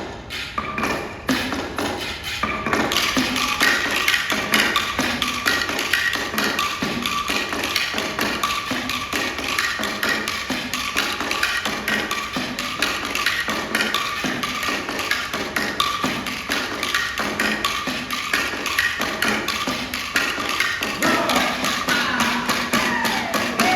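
Percussion ensemble playing a fast, dense rhythm of tapped wooden strokes, thickening about three seconds in, with a pitched tone sliding downward near the end.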